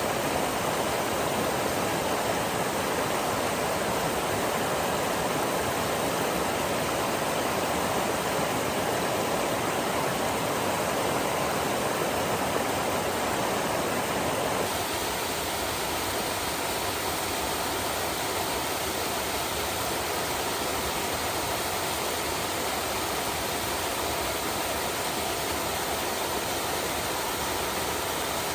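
Water of a small stream flowing steadily. About halfway through, the sound changes abruptly to a slightly quieter rush.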